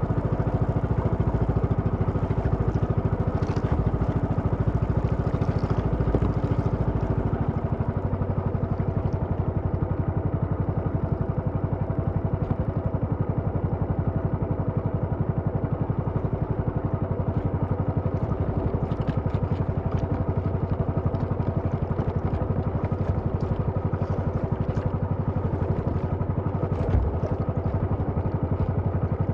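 Small engine running steadily at a constant speed, its note shifting slightly about eight seconds in.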